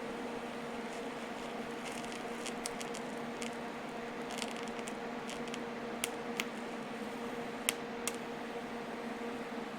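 A welding machine hums steadily while a swing-arm sleeve is being welded, with brief crackles and a few sharp clicks, four of them in the second half.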